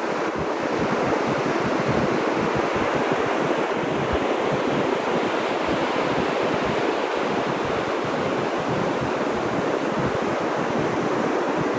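Ocean surf washing on a beach, a steady rush of waves with no single distinct crash, with some wind rumbling on the microphone.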